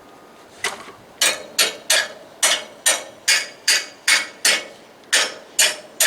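Steady series of about a dozen hammer blows on metal, two to three a second, each with a short ring. They are driving a bolt or pin home to couple a Freedom Hauler car tote to its hitch.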